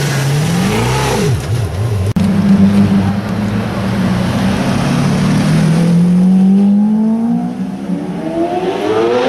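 A car engine revving and accelerating. Its pitch dips about a second in, with a brief break about two seconds in, then holds steady before climbing through the last few seconds.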